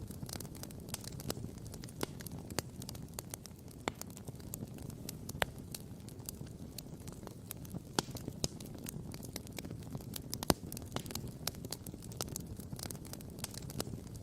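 Wood campfire crackling and popping: many irregular sharp snaps, one loudest pop about ten seconds in, over a steady low rumble.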